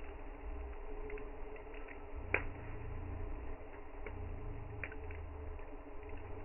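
Campfire crackling: scattered sharp pops from burning wood, the loudest about two seconds in, over a low rumble.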